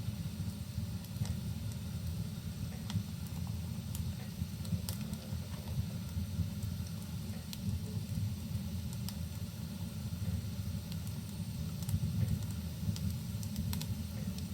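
Crackling wood fire in a fireplace: scattered sharp pops and snaps over a steady low rumble, with a faint hiss of rain.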